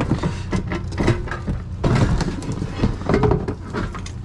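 Junk being rummaged and shifted inside a metal dumpster to free an aluminum pot: irregular clattering knocks and scrapes over a steady low rumble.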